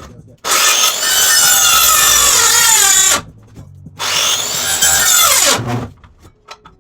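Electric power saw cutting framing wood in two runs, the first about three seconds long and the second about a second and a half. The second dies away with a falling whine as the blade spins down.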